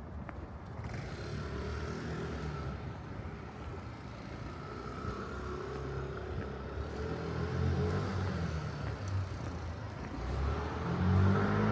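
Road traffic: a motor vehicle's engine running close by, getting louder near the end as it approaches, over a steady hum of city street noise.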